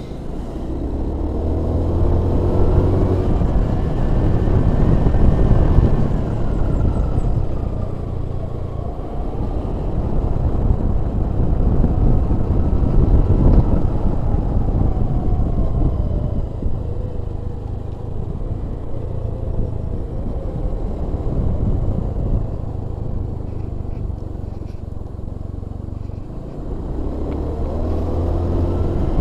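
A vehicle's engine running while driving, its pitch rising and falling several times as it speeds up and eases off, over a steady low road rumble.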